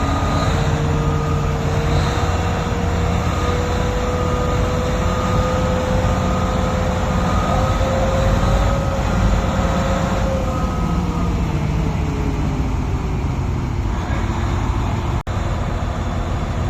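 Heavy diesel mining equipment running hard: a steady low rumble with a whining tone that slowly climbs, then falls away about ten seconds in. The sound cuts out for an instant near the end.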